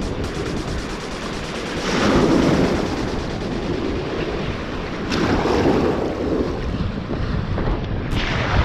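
Ocean surf washing onto the beach, swelling twice as waves break, with wind buffeting the microphone.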